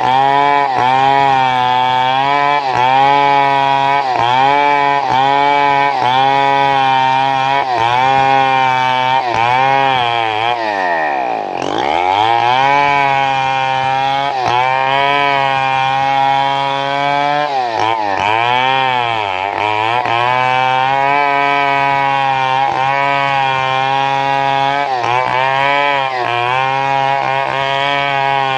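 Two-stroke chainsaw running continuously at high revs while cutting wood. Its pitch sags sharply about 11 seconds in and again around 18 seconds, then climbs back.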